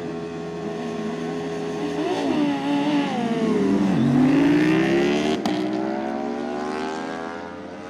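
Superbike engine holding revs, then accelerating with a rising pitch. There is a gear change about five seconds in, after which it keeps pulling and fades as it goes away.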